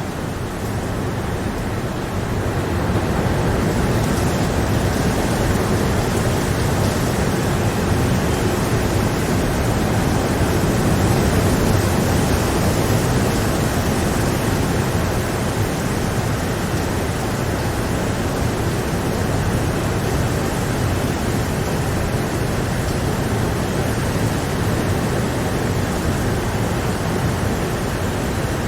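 Steady rain, an even dense hiss that swells slightly a few seconds in.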